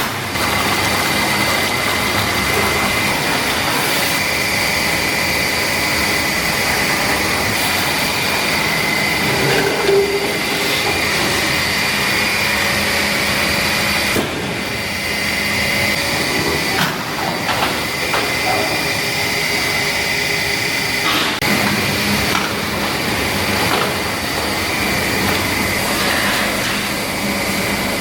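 Industrial vortex washing machine for raw ingredients running steadily, a constant mechanical noise with a high whine, with a few brief knocks.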